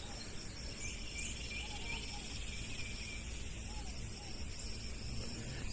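Outdoor ambience: a steady high insect drone, with a quick run of high bird chirps about a second in and a few faint bird calls later.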